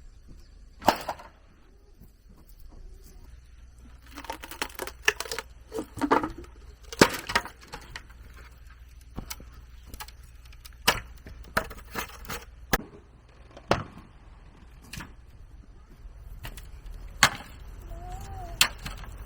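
Bamboo being worked by hand: irregular sharp knocks and cracks, more than a dozen strikes at uneven spacing, with a cluster about four to seven seconds in.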